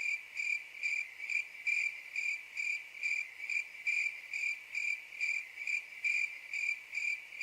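Crickets chirping, the meme sound effect for an awkward silence: a steady high chirp pulsing evenly a little over twice a second.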